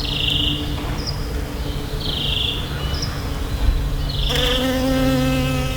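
A bee buzzing at flowers close to the microphone, a steady pitched hum that grows much louder and fuller about four seconds in as it comes near. A short high chirp repeats about once a second over it.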